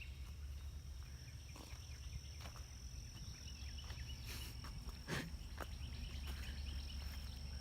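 Steady, unbroken high-pitched insect drone, with a low rumble beneath it and a few faint chirps. There is a sharp click about five seconds in.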